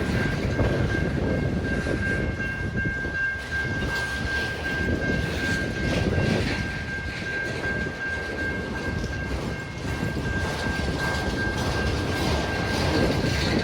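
CN freight train rolling past, a steady rumble of wheels and cars on the rails with a steady high-pitched whine over it.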